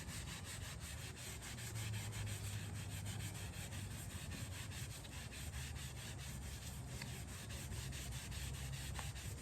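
Shop towel soaked in used engine oil being rubbed along a wooden tool handle in steady, rhythmic back-and-forth strokes.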